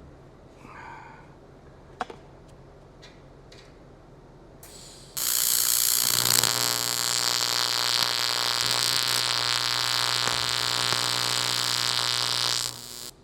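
An electric welding arc on the aluminum tank, a loud steady buzz that starts about five seconds in and runs for about seven and a half seconds before cutting off sharply. A few small clicks and handling sounds come before it.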